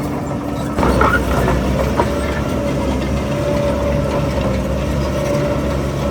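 Heavy diesel engine of earthmoving machinery running steadily, growing louder in a step a little under a second in, with a steady whine above it and a single knock about two seconds in.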